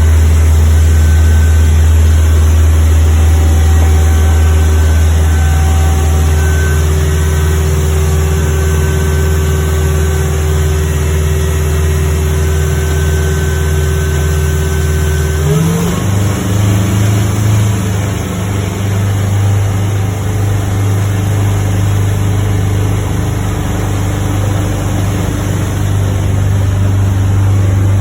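Turbo diesel engine of a Sea Ray 220 DA boat running steadily. About halfway through its note changes abruptly, rising briefly and then settling at a different steady speed.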